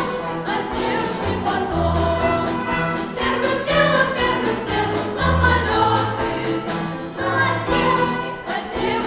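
Pop-symphony orchestra playing, with a bass line repeating in even strokes under the melody.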